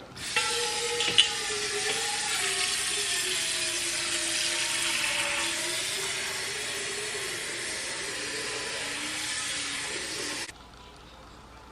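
Kitchen tap running into a pot, filling it with water for boiling pasta, with a faint ringing tone in the stream that slowly drifts lower. The water cuts off suddenly about ten and a half seconds in.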